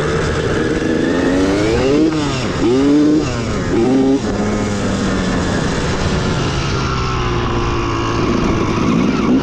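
Several dirt bike engines running: one is revved up and down several times about two to four seconds in while others idle steadily underneath.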